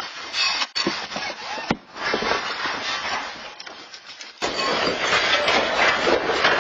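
Earthquake shaking, heard as a loud jumble of rattling and clattering objects with irregular knocks; it eases off in the middle and comes back up suddenly about four and a half seconds in.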